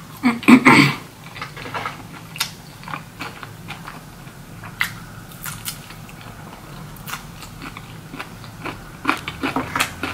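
Close-up eating sounds of chicken wings being eaten off the bone: chewing, biting and wet lip smacking, loudest about half a second in, then sparse sharp smacks and clicks with a denser run near the end.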